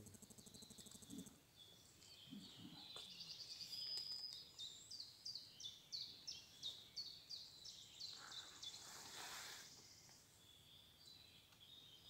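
Faint forest ambience with a small bird singing: a quick series of about a dozen high, falling notes, roughly three a second, about halfway through. A short soft hiss follows.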